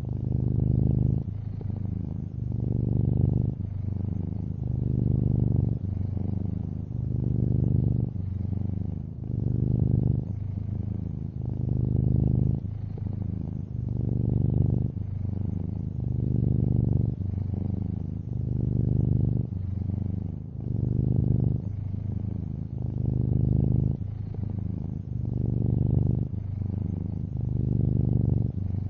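A long-haired orange tabby cat purring close up, a low steady rumble that swells and eases about every two seconds as the cat breathes in and out.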